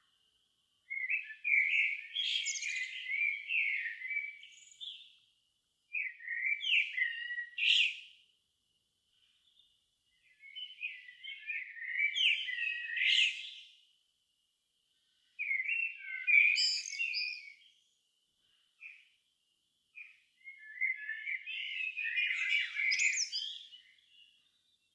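A songbird singing in five twittering phrases of two to four seconds each, separated by short pauses.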